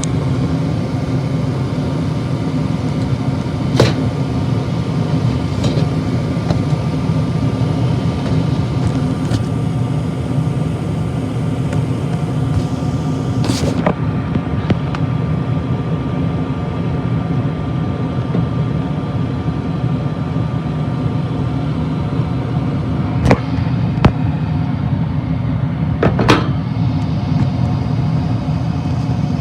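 Gas furnace running: a steady motor hum with a thin whine above it, broken by a few sharp clicks or knocks.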